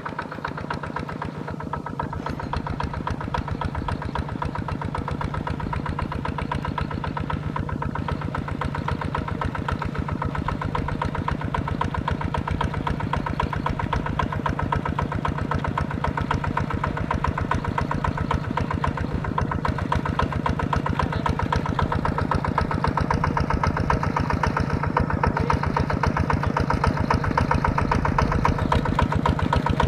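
Tractor engine running steadily with an even rapid firing beat, getting gradually louder.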